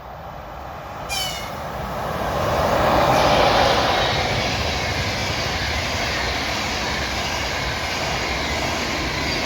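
Long-distance passenger train passing at speed: a short high-pitched tone about a second in, then the rush of the locomotive and coaches swells to its loudest a few seconds in and carries on as a steady roar of wheels on rails.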